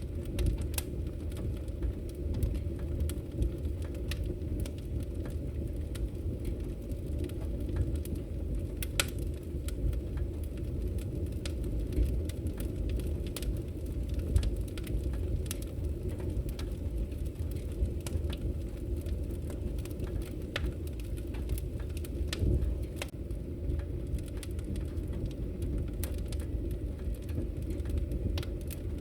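Wood fire crackling in a fireplace: a steady low rumble of burning with frequent, irregular sharp pops and snaps, a few of them louder.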